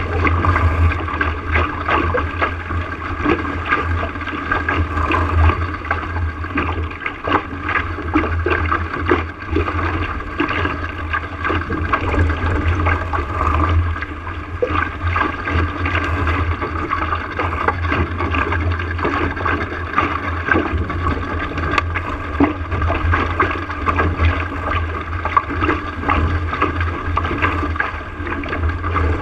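Water gurgling and splashing along the hull of a small sailboat under way, with a steady low rumble of wind on the microphone.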